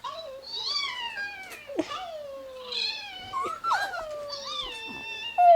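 Dogs howling: a run of long wails, each sliding down in pitch, one after another.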